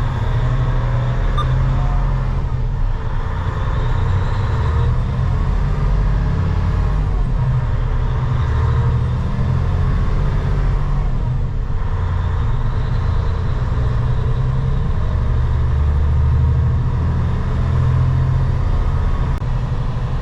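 Semi truck's diesel engine and road noise heard from inside the cab while driving, a steady low drone.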